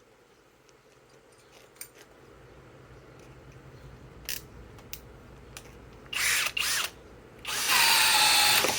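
Flex Quick Eject cordless impact driver drilling with a bit in two bursts: a short one about six seconds in, then a longer full-speed run near the end, preceded by a few light clicks.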